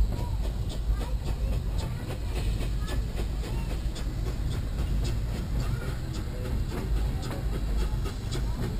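Narrow-gauge train rolling along the track: a steady low rumble with irregular clicks and clatter from the wheels and cars.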